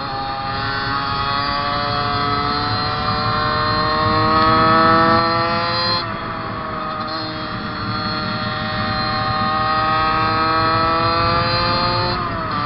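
Fantic 50 two-stroke motorcycle engine at full throttle, its pitch climbing slowly as it pulls. The pitch drops sharply about six seconds in and again near the end as it shifts up a gear, then climbs again.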